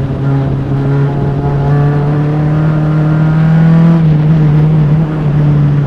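Single-seater race car's engine heard close up from the car itself, running loud and hard at fairly steady high revs, with small shifts in pitch about four and five seconds in.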